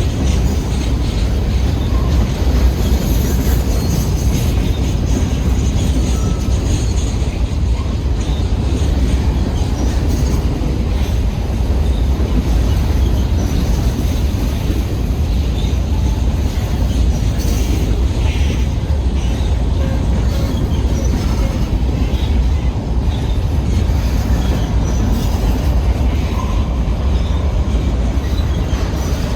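Freight train's cars rolling past on the rails, a steady heavy rumble with a few faint, brief wheel squeals.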